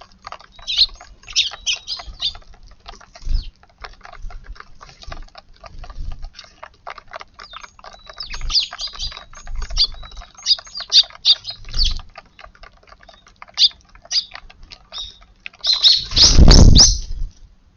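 Eurasian tree sparrows chirping in short, busy bursts, over many small rapid clicks. Near the end comes a loud, noisy burst lasting about a second.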